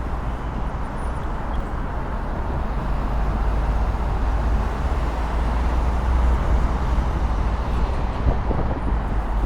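Steady street traffic noise heard from a moving bicycle, with a low wind rumble on the microphone.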